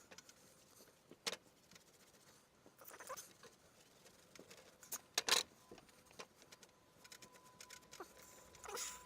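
A few scattered light clicks and knocks, the loudest about five seconds in, with a faint steady hum in the second half.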